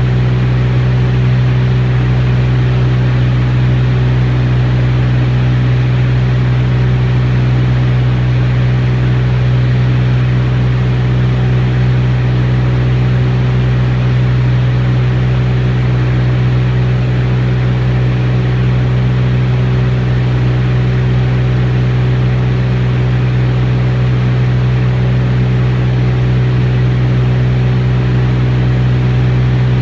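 Beechcraft T-34 Mentor's piston engine and propeller, a steady low drone at constant power, heard from on board the aircraft.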